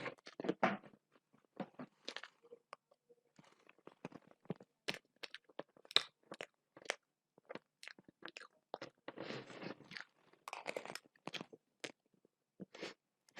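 Close-up eating sounds: a person biting, chewing and crunching food, with irregular sharp crunches and wet mouth clicks.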